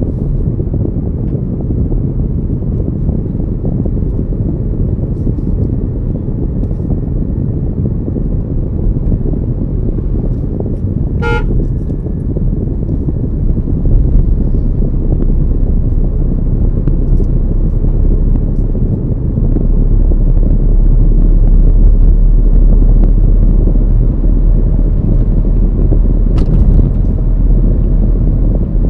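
Steady low road and wind rumble from a moving car, with one short vehicle horn toot about eleven seconds in.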